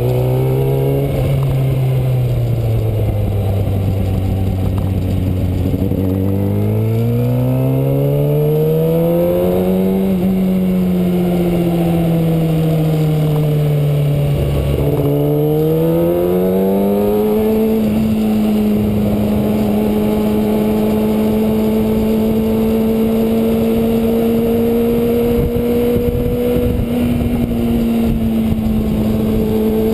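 Kawasaki Ninja ZX-6R's inline-four engine under way. Its revs sag, climb over a few seconds, fall back, then climb again and hold steady for the last twelve seconds or so, over a steady rush of wind on the microphone.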